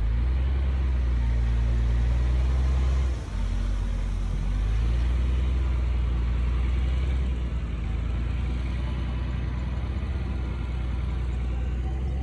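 Komatsu D58P bulldozer's diesel engine running with a deep, steady drone; it drops briefly about three seconds in, then picks back up.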